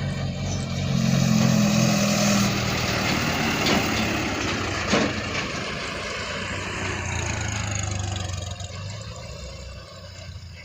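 Combine harvester's diesel engine running and revving, loudest in the first couple of seconds, with a sharp knock about five seconds in, then slowly fading away.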